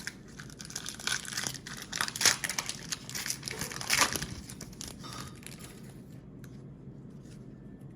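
Foil trading-card pack wrapper crinkling and tearing as it is opened, a run of irregular rustles with two louder bursts around the middle, then only faint handling.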